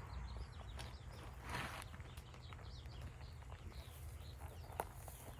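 Handling of an insulated beehive cover as it is fitted around the hive: a brief rustling scrape about a second and a half in and a sharp click near the end. Faint bird chirps and a low steady rumble run underneath.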